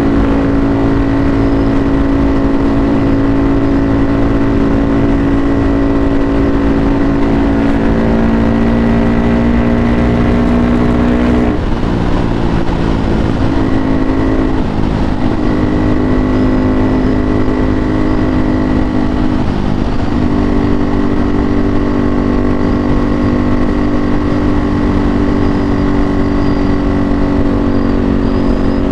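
KTM RC 390 single-cylinder engine through a full Akrapovic exhaust system, ridden at steady revs. About halfway through the revs drop and waver for several seconds, then settle steady again.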